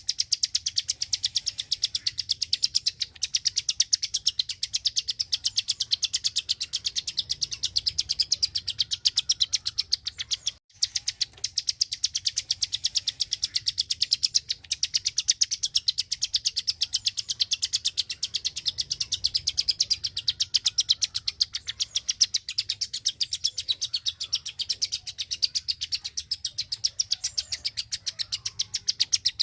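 A caged klik-klik songbird calling in a long, even run of rapid, sharp clicking notes. It breaks off briefly about ten seconds in.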